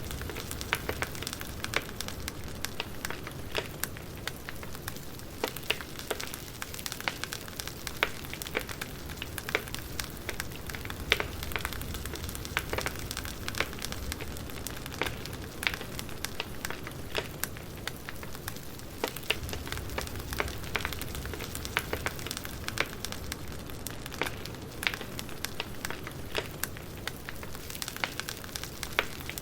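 Wood fire crackling, with a steady hiss of burning and frequent sharp pops and snaps at irregular moments.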